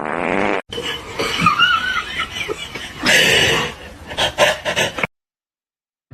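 People laughing, with a wavering high squeak about a second in; it cuts off suddenly about five seconds in.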